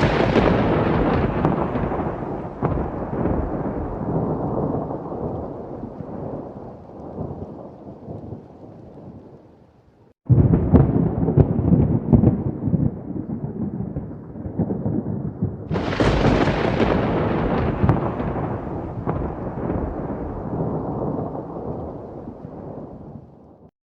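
Thunderstorm: a rolling peal of thunder that fades over about ten seconds, then two more claps starting suddenly about 10 and 16 seconds in, each rumbling and dying away, with rain under it.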